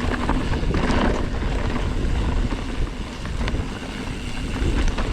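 Riding noise from a Whyte S-120 mountain bike: wind buffeting the action camera's microphone over a heavy rumble of tyres rolling on a dirt trail, with a few sharp clicks and rattles from the bike.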